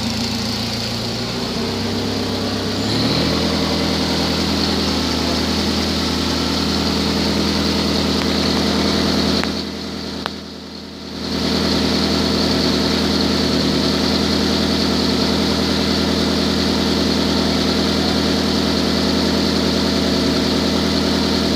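2008 Nissan Altima engine idling steadily, an engine the seller says has an exhaust leak. The note steps up slightly about three seconds in, and the sound briefly dulls and drops in level for a couple of seconds around the middle.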